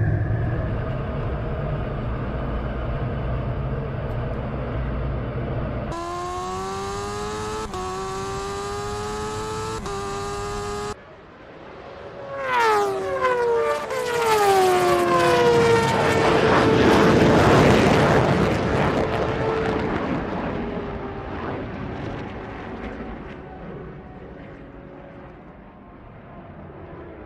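Racing vehicles at full power: a low rumble, then a high-revving engine climbing through its gears with two upshifts. Then a vehicle screams past with its engine pitch falling steeply as it goes by, and fades away.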